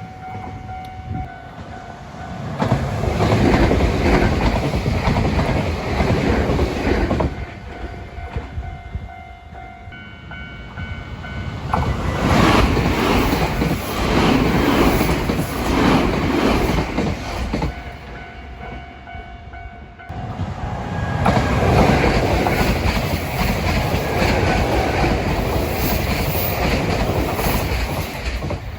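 Nankai Main Line electric trains running over a level crossing, three passes in turn, wheels clattering over the rail joints. Steady warning-bell tones of the crossing are heard in the quieter gaps between passes.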